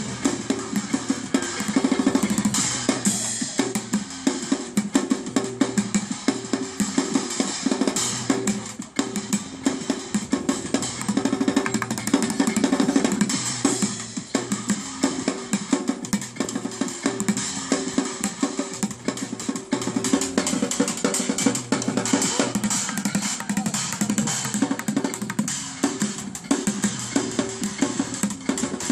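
Bucket drummer playing a fast, busy rhythm on upturned buckets, barrels and drums, with dense rapid strikes and no break.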